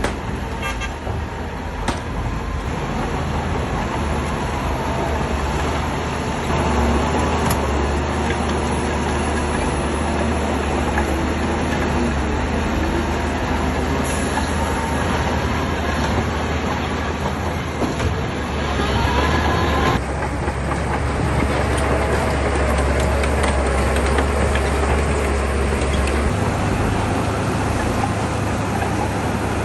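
Shantui crawler bulldozer working: its diesel engine runs steadily under load with the clatter of its steel tracks, the sound shifting abruptly about two-thirds of the way in.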